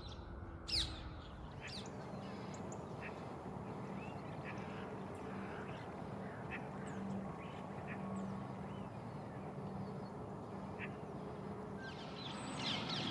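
Faint outdoor birdsong: scattered short bird calls and chirps, with one louder call about a second in, over a steady low hum.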